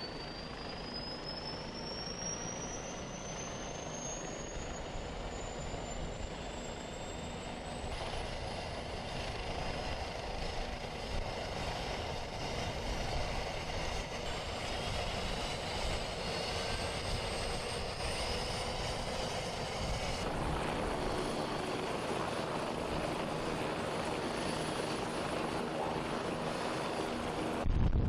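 Bell OH-58 Kiowa helicopter running, its turbine and rotors giving a steady dense noise under a high turbine whine that rises in pitch over the first several seconds. The sound changes abruptly about a third of the way in and again about two-thirds of the way through.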